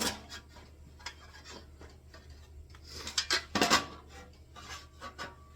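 Metal clinks and taps from handling sheet-metal seat panels and Cleco temporary fasteners, scattered and irregular, with a brief cluster of sharper clinks a little past the middle.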